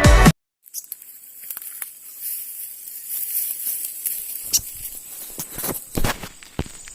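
Electronic music cuts off sharply, then outdoor ambience: a steady high-pitched insect buzz with scattered clicks, taps and rustles.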